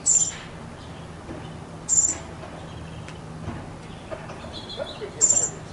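A small bird outdoors chirping: three short, high-pitched chirps, the first right at the start, the next about two seconds later, and the last about three seconds after that.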